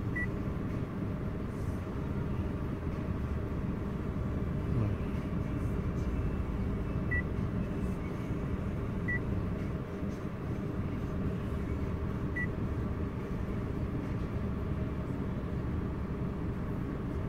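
Steady low rumble of a car idling, heard from inside the cabin, with four short high beeps spread through it.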